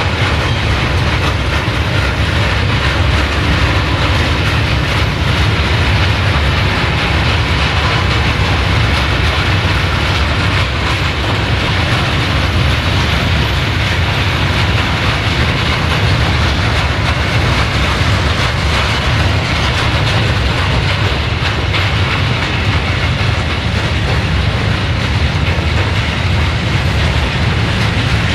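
Freight train of covered sliding-wall wagons rolling past, a steady loud rumble and clatter of steel wheels on the rails.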